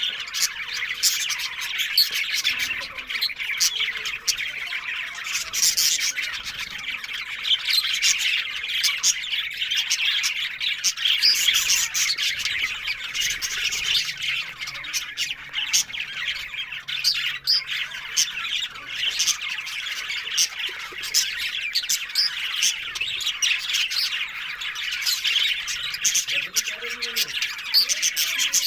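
Budgerigars chattering without pause: a dense, busy mix of warbling chirps and short, sharp squawks.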